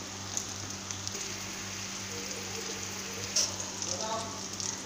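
Stuffed bitter gourds (karela) sizzling steadily in hot oil and tomato in a kadhai, with a low steady hum underneath.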